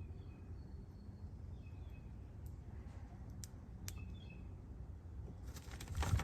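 A few short, faint bird chirps over a low background rumble, with a few light clicks and a brief louder rustle near the end.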